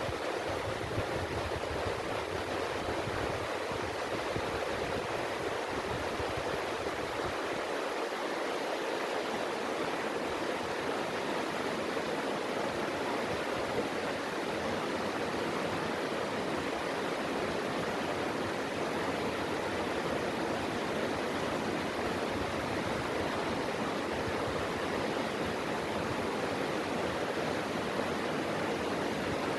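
Mountain valley stream, water rushing steadily over rocks in a constant, even wash of sound.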